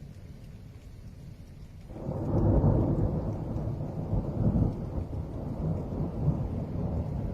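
Thunder: a low rumble breaks in sharply about two seconds in, peaks, then rolls on.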